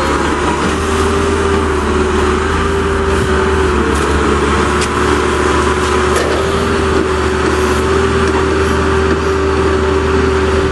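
Caterpillar backhoe loader's diesel engine running steadily under work, with a steady whine held throughout.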